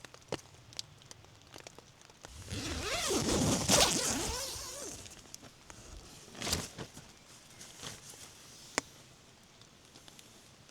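A zipper pulled in one long stroke of about two and a half seconds, then a short second pull a couple of seconds later, with small clicks and rustles around it.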